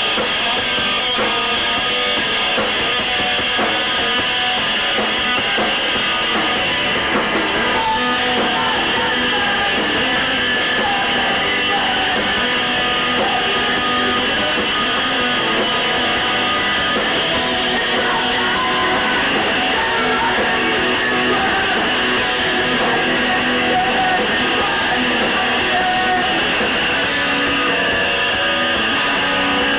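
Live emo/post-hardcore rock band playing loudly: distorted electric guitars with drums, in a thin, bass-light amateur recording.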